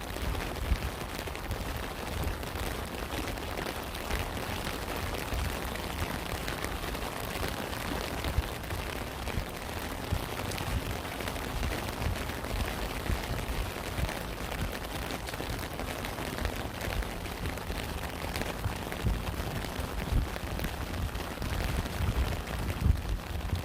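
Steady rain falling, with many small drop hits over an even hiss and a low rumble underneath.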